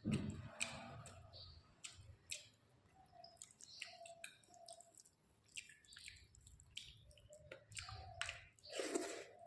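Close-miked eating sounds of rice with fish curry and greens: wet chewing, lip smacks and many small mouth clicks, with a low thump at the start and a louder, longer wet squelch near the end.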